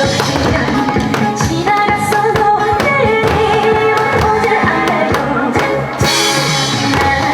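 Upbeat Korean trot song with singing, with drums beaten in time along with it as a nanta drum performance.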